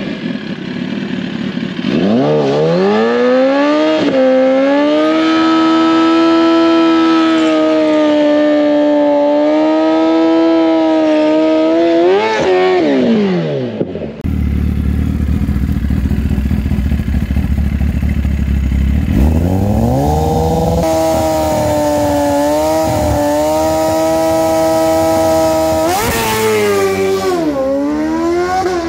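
Motorcycle engines at high revs. One revs up about two seconds in, holds a steady high pitch, then winds down near the middle. After a sudden change comes a low rumble, then another engine revs up and holds, dipping and climbing again near the end.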